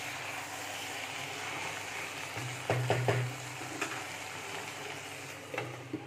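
Chicken pieces sizzling as they are sautéed with fried onion and ginger-garlic paste in a nonstick pot, a steady hiss of frying. A wooden spatula knocks and scrapes against the pot a few times about halfway through, and a glass lid clinks onto the pot near the end.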